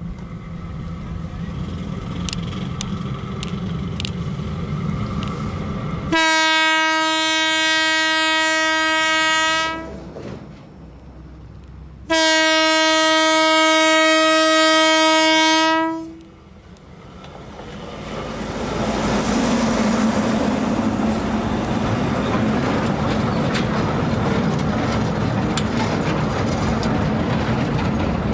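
A narrow-gauge sugar cane railway diesel locomotive approaches, its engine rumbling louder. It sounds two long blasts on its horn, each about three and a half seconds, then runs past loudly with its train of cane wagons clattering.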